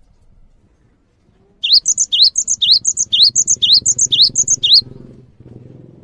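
A songbird singing a fast string of about seven identical phrases, roughly two a second, each a rising whistle followed by higher chirps; it starts about one and a half seconds in and stops about five seconds in.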